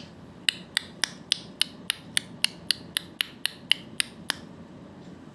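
A rapid, even series of sharp clicks, about four a second, stopping about four seconds in.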